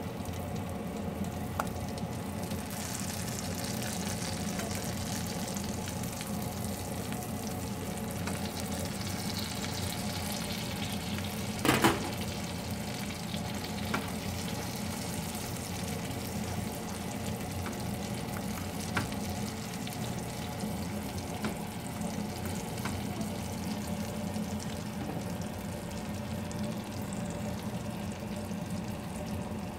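Oil sizzling steadily as eggplant omelettes (tortang talong) shallow-fry in a nonstick frying pan. A cooking utensil knocks sharply against the pan about 12 seconds in, with a few lighter taps now and then.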